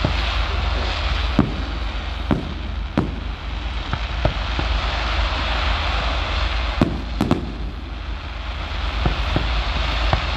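Fireworks display: sharp bangs of exploding shells at irregular intervals, several seconds apart and sometimes in quick pairs, over a steady crackling hiss and a low rumble.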